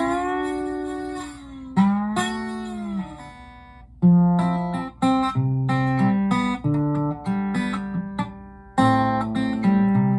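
Guitar playing an instrumental passage between sung lines: two long notes that bend in pitch, then a run of shorter picked notes and chords.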